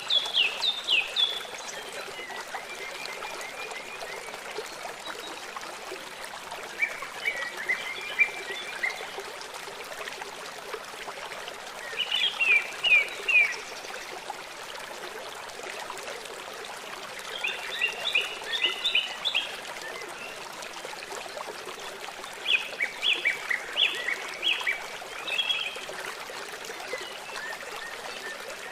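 Steady rush of flowing river water, with a songbird singing short phrases of quick high notes about every five seconds.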